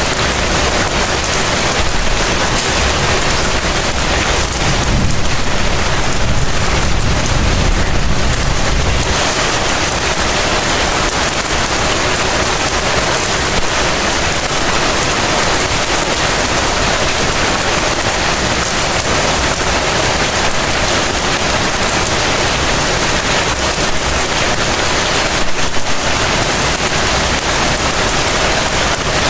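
Heavy rain falling steadily in a dense, even hiss. A low rumble swells about five seconds in and fades after a few seconds, and there is a short bump in level near the end.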